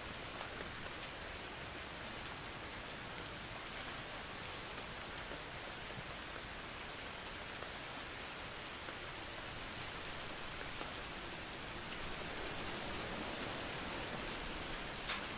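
Steady heavy rain falling, a dense even hiss that grows slightly louder about twelve seconds in, with one sharp drop tap near the end.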